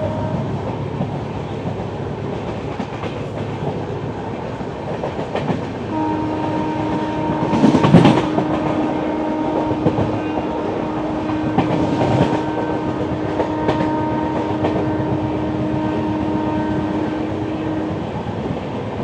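Passenger express train running at speed, with wheels clattering on the rails. A train horn sounds in one long steady note through the middle, and there are two louder rushes of noise during it.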